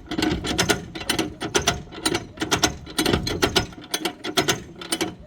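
A locomotive's handbrake being wound on by hand, its ratchet pawl clicking rapidly several times a second as the brake is tightened.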